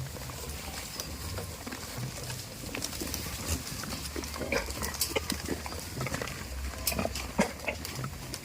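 Goats at close range: scattered short clicks and brief animal noises, a few louder ones about halfway through and near the end, over a low steady hum.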